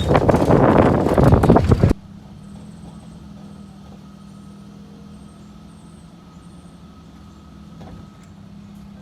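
Loud rushing noise for about two seconds that cuts off suddenly, then a vehicle engine running steadily with a low hum.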